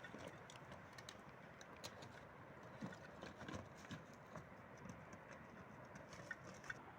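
Faint footsteps on a rocky trail: irregular light taps and crunches over a soft outdoor hiss.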